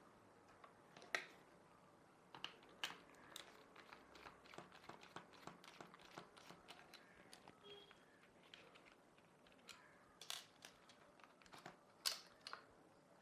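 Faint, irregular clicks and taps as a plug-in power meter's casing is opened and its parts handled by hand. A few sharper clicks stand out about a second in, around three seconds, and twice near the end.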